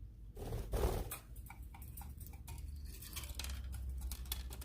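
Budgie on a scale making a quick, irregular run of small clicks and taps, with a brief rustle about half a second in.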